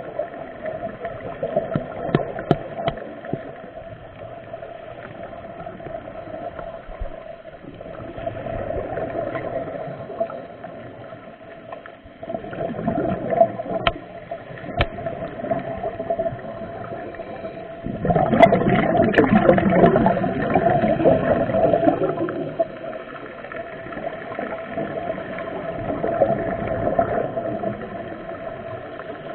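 Underwater sound during a scuba dive: surges of gurgling bubbles from a diver's exhaled breath come and go over a steady hum, the loudest starting about two-thirds of the way through.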